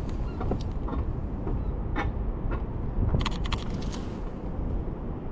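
Wind buffeting the microphone, a steady low rumble. A few sharp clicks sound about two seconds in, and a quick run of clicks follows a little after three seconds.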